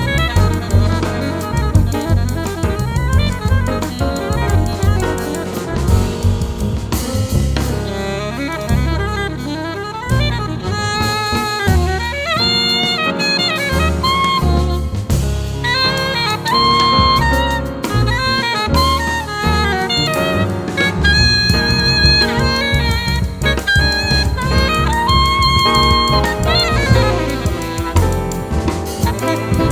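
Jazz quartet playing live: an alto saxophone carries the melody, mixing held notes with quick runs, over piano, bass and a drum kit keeping time.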